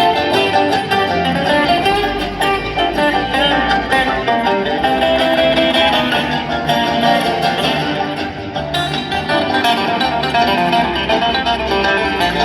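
Bluegrass string band playing live: an instrumental jam with plucked guitar to the fore and no singing, the notes running on steadily.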